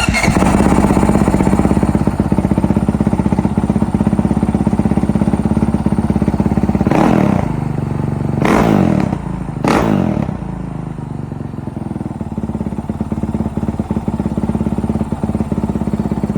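Honda CRF450L single-cylinder four-stroke engine starting and idling through a Yoshimura full exhaust system, blipped three times in quick succession about seven to ten seconds in before settling back to idle.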